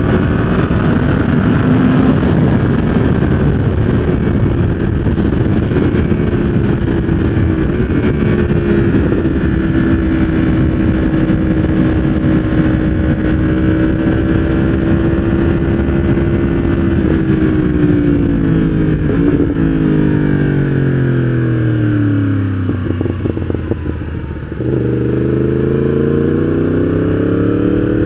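Yamaha R1 inline-four engine through a full aftermarket exhaust system, running at steady revs for most of the clip. Near the end, the pitch falls slowly as the revs drop, there is a brief dip in loudness, and then the pitch rises again as it picks up revs.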